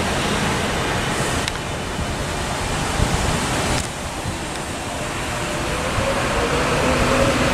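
Steady rushing noise of wind and distant rail traffic. From about five seconds in, the faint rising whine of an electric train's traction motors pulling away grows in under it.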